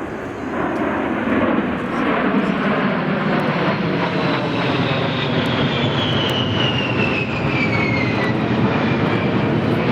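Airplane engine noise as an aircraft flies past at an air show, growing louder about a second in, with a high whine that falls steadily in pitch as it passes.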